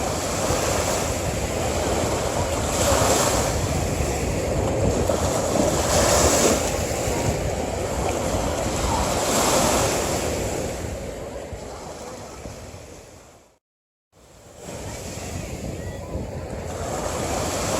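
Sea waves breaking on a beach, surging in swells every three seconds or so. About fourteen seconds in, the sound fades out to silence for half a second and fades back in.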